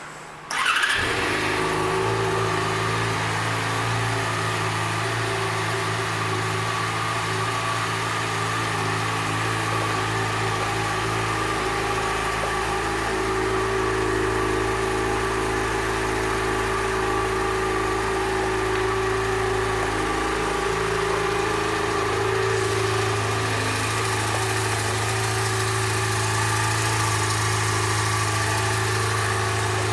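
The 600 cc inline-four engine of a 2012 Yamaha FZ6R motorcycle starts a little under a second in, then idles steadily.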